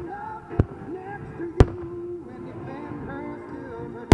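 Fireworks shells bursting: two sharp bangs about a second apart, the second louder, and another near the end, over continuous music with singing.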